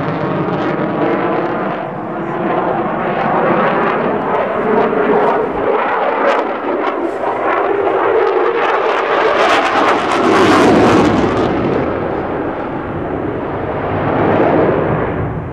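Eurofighter Typhoon's twin Eurojet EJ200 turbofans running loud through a display pass. The noise swells to its loudest about ten seconds in, then eases off.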